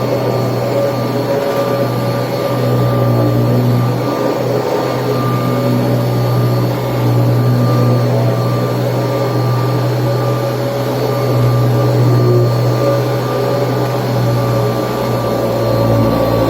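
Kirby Tradition upright vacuum cleaner running steadily, a loud motor hum with a faint high whine.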